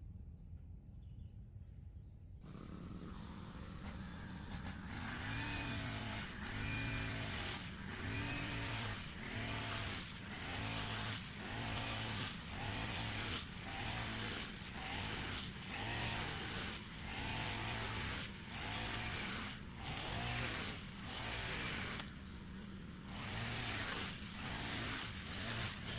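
A motor running with a pulsing sound that swells and dips about once a second. It starts a couple of seconds in and grows louder.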